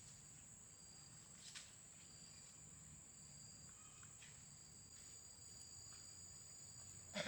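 Insects trilling in a steady high tone, with a second trill pulsing on and off, and a few faint clicks; a single knock near the end.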